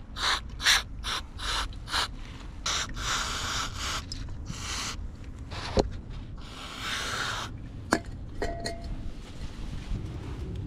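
Throttle body being cleaned with carburettor cleaner: a quick series of rubbing strokes, then several longer hissing bursts, and a few light knocks.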